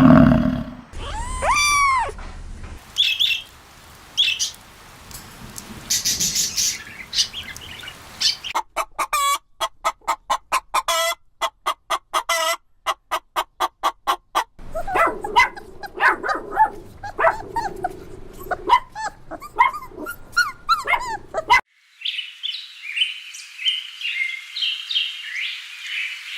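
A string of different animal calls played one after another, mostly birdlike chirps and calls, with a fast, evenly pulsing run of calls in the middle and high chirping near the end.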